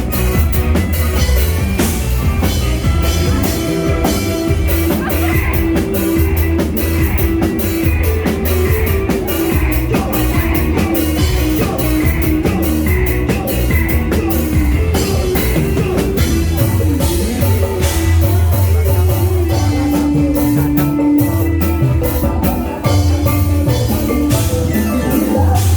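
Live dangdut band music: drum kit and heavy bass under a sung melody with long held notes.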